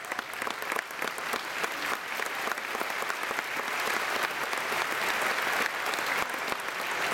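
Audience applauding in a hall, a steady clapping that swells slightly over several seconds.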